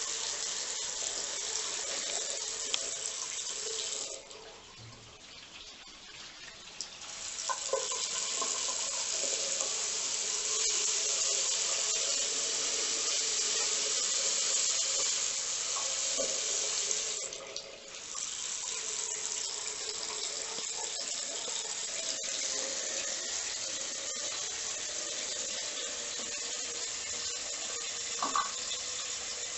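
Water running hard from a tap as a steady hiss. It cuts off about four seconds in for nearly three seconds, then again for a moment a little past the middle.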